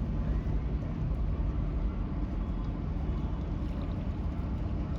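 Tugboat diesel engine giving a steady low rumble.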